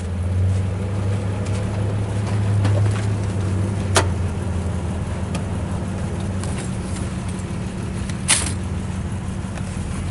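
A vehicle engine idling with a steady low hum. Two sharp knocks, about four and eight seconds in, come from gear being moved around in the cargo area.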